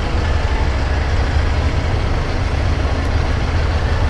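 Steady rush of wind and road noise with a deep rumble, recorded while riding a 150cc motorcycle.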